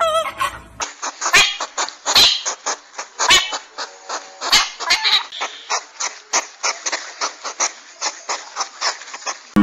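Flamingo honking for the first second, then a hedgehog snuffling: a fast, uneven run of short, breathy puffs, several a second, that cuts off suddenly at the end.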